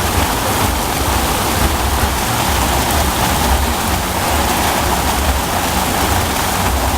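Heavy rain pouring down onto a flooding street, a steady loud hiss with a low rumble underneath.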